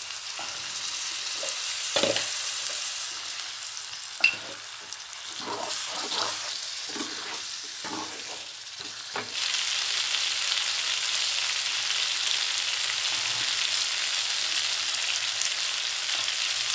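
Chicken pieces in masala sizzling in a non-stick frying pan while a plastic spatula stirs and scrapes them. A few knocks of the spatula against the pan come in the first half. The sizzle grows louder and steadier about halfway through.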